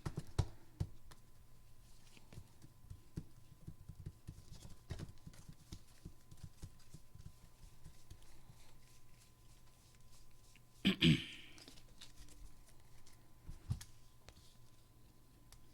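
Trading cards being handled on a table: scattered soft taps and clicks as cards are drawn, flipped and laid down, with a louder brief rustle or knock about eleven seconds in.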